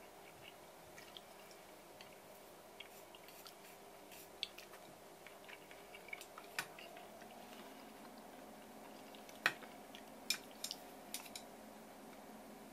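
Quiet eating sounds: a person chewing sashimi, with scattered small clicks of chopsticks and dishes. The sharpest click comes about three quarters of the way through, with a few more quickly after it, over a faint steady hum.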